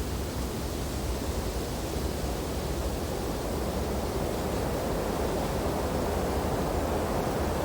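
Wind blowing through snowy tree branches: a steady, low rushing that swells a little in the middle and eases off near the end.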